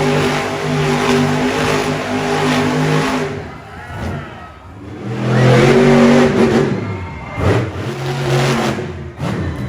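Monster truck engine revving hard. It eases off about three and a half seconds in, comes back on about five seconds in, then lets off briefly twice more near the end.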